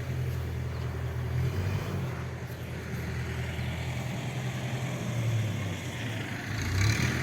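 Road vehicle noise: a steady low engine and road rumble, with a louder rushing noise coming in near the end.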